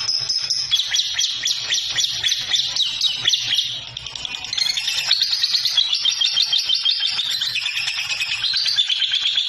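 Lovebird chattering in a fast, unbroken stream of high chirps, briefly softer about four seconds in.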